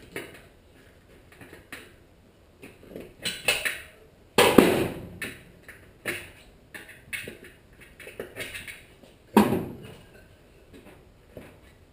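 Handling noise from a dirt bike tire and inner tube being worked on the wheel rim while the tube's valve stem is pushed through: scattered light knocks and rubbing, with two louder thumps about four and nine seconds in.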